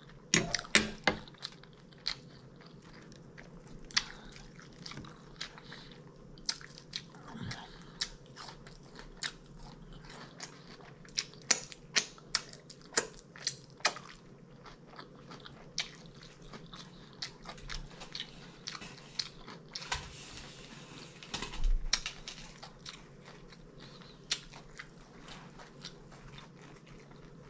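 A person biting and chewing food close to the microphone, with crunches and small wet mouth clicks scattered throughout. There is a brief louder noise about twenty seconds in.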